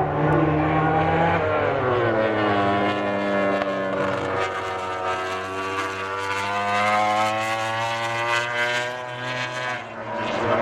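MotoGP racing motorcycle engine at high revs, its pitch falling for a couple of seconds as it slows, then climbing steadily for several seconds as it accelerates, dropping away shortly before the end.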